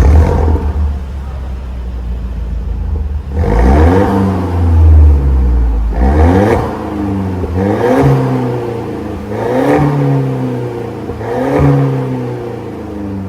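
Mercedes-Benz C180's turbocharged 1.6-litre four-cylinder (M271 DE16) running through an MS-R valved cat-back exhaust, cutting in abruptly and holding a steady low note for about three seconds, then revved in about five quick blips roughly two seconds apart, each rising and falling back.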